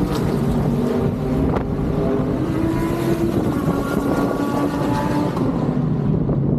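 Several race car engines heard at once, each holding a pitch that rises and falls as the cars accelerate and pass.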